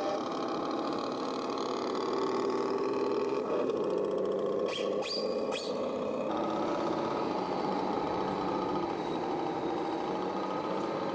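Remote-control toy tractor running with a steady motor drone that wavers slightly in pitch, with three short sharp sounds about five seconds in.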